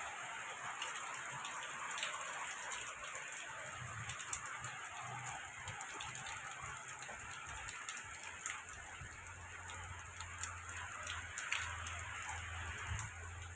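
Rain falling during a storm: a steady hiss with many scattered drop clicks, and a faint low hum in the second half.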